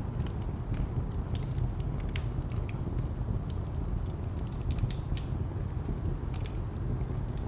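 Wood fire crackling, with irregular sharp pops and snaps, over a steady low rumble of distant traffic.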